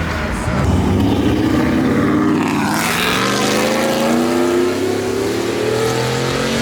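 A car engine accelerating hard, its pitch rising steadily, then dropping at a gear change about three seconds in before it climbs again.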